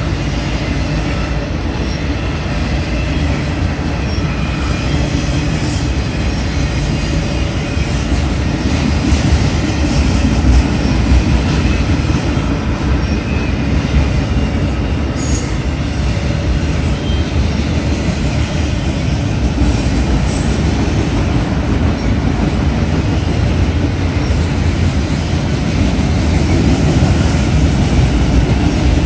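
CSX freight train of autorack cars rolling past at a steady pace: a continuous, even noise of steel wheels on rail.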